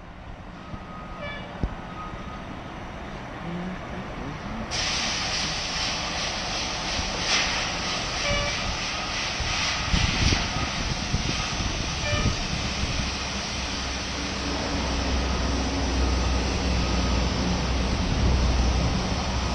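Fire engine running with a low rumble, joined suddenly about five seconds in by a steady hiss that holds on; the rumble grows louder near the end.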